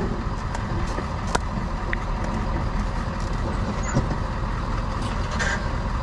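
Steady low rumble of an idling vehicle engine, with a few sharp knocks and clicks, the loudest right at the start and another about four seconds in.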